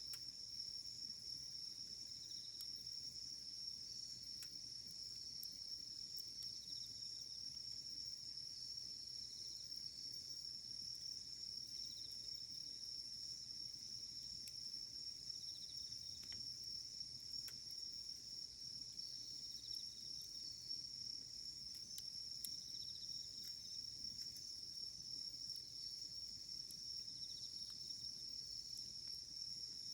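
A steady, high-pitched chorus of insects goes on throughout. Over it come a few sparse, faint crackles from a wood campfire.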